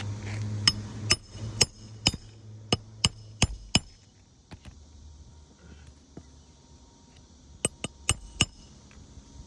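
Hammer driving roofing nails into an asphalt shingle, about a dozen sharp ringing strikes: a quick run of eight, a pause, then four more near the end.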